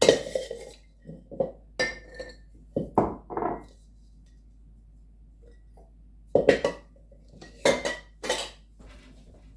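Glass quart canning jars and kitchenware knocking and clinking as they are handled on a counter: a run of short knocks, some with a brief glassy ring, a pause of about two seconds in the middle, then a few more.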